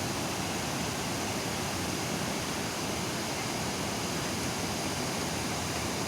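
Waterfall rushing: a steady, even noise with no change throughout.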